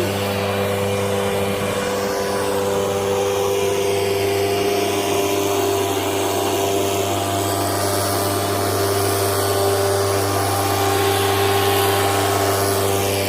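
An engine or motor running at a steady speed: a constant hum of several fixed tones under a haze of noise.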